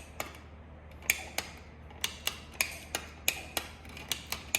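A steady run of sharp clicks, about three a second, over a low steady hum.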